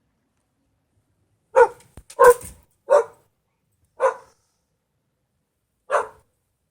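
Shetland sheepdog barking: five short barks, the first about a second and a half in, with longer gaps toward the end.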